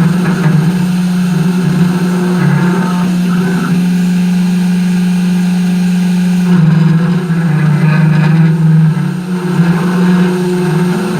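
CNC machine running, its spindle motor giving a steady hum; about six and a half seconds in the hum drops slightly in pitch and begins to waver.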